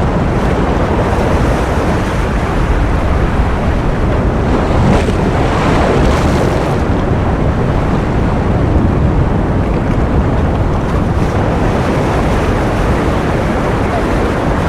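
Steady ocean surf noise: a continuous rush of waves, loud and even, swelling slightly about five seconds in.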